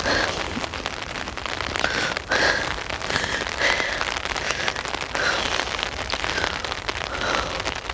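Heavy rain falling, a steady hiss packed with close drop hits. Short high chirps recur about every second.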